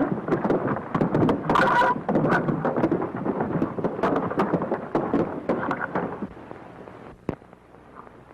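A rumbling clatter of many irregular knocks, fading away after about six seconds.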